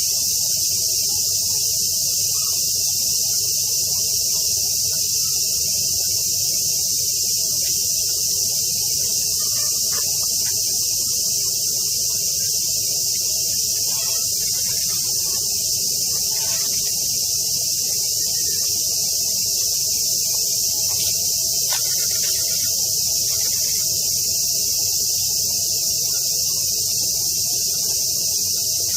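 Dense chorus of summer cicadas: a steady, high-pitched buzzing drone that never lets up, with a fainter low hum underneath.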